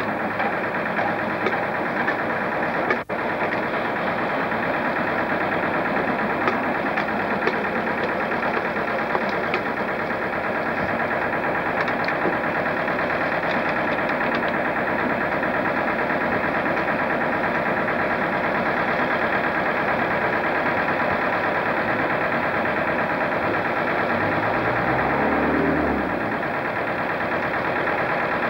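A train running, drawn away by its locomotive: a steady mechanical engine-like running sound with a brief dropout about three seconds in.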